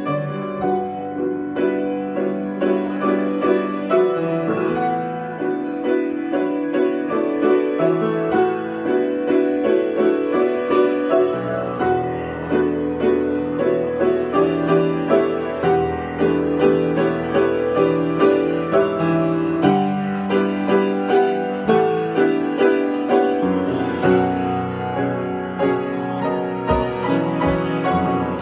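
Solo piano improvisation: full chords and melody notes over a steady, even pulse of repeated accents.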